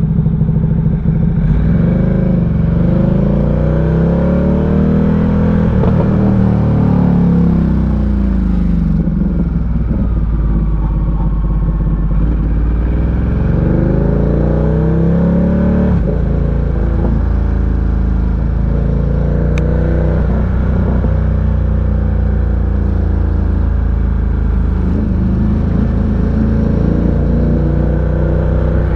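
Ducati Diavel 1260's V-twin engine under way, its revs climbing and dropping back through the gears several times, then running more steadily in the second half. The rider says the engine is 'just firing', loving the cold, dense air.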